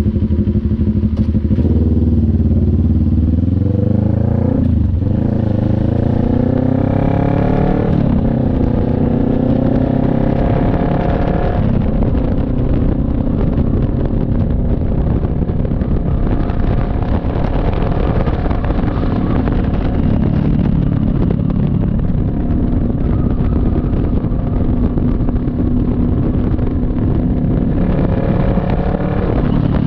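CF Moto NK400's two-cylinder engine accelerating through the gears. Its pitch rises and drops back at upshifts about five and eight seconds in, climbs once more, then holds a steady cruise.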